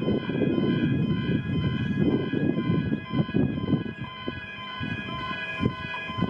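Level crossing warning bell ringing steadily as a ringing electronic tone, showing the crossing is activated for an approaching train. Under it runs a low rumble that eases off about halfway through.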